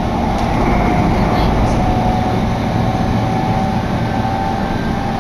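Electric commuter train running at speed, heard from inside the passenger car: a steady rumble of wheels on rails with a constant electric hum over it.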